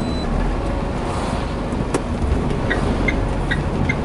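Steady engine and road rumble heard inside a moving truck's cab. About two-thirds of the way in, a regular ticking starts, a little over two ticks a second, like a turn signal clicking.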